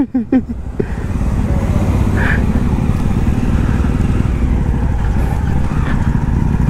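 Jawa 42's single-cylinder engine running at low road speed with light throttle: a steady low drone, with no revving.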